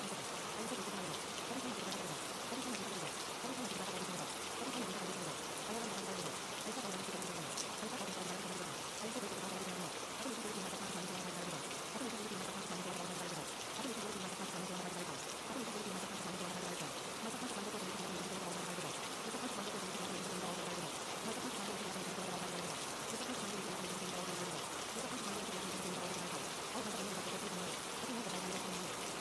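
Steady rain, an even hiss of falling water. Under it, a low murmur repeats about once a second, each stroke falling in pitch: the layered affirmation voices of a subliminal.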